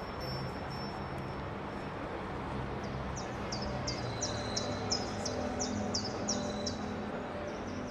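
A bird sings a run of about ten short, high notes, two or three a second, starting about three seconds in, over a steady background rumble.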